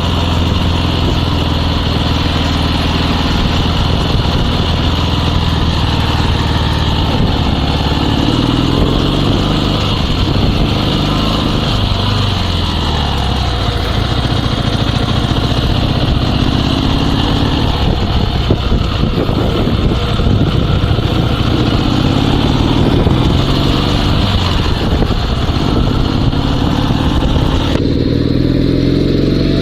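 Dnepr 16 sidecar motorcycle's 650cc flat-twin engine running under way, its pitch rising and falling again and again as the engine speed changes.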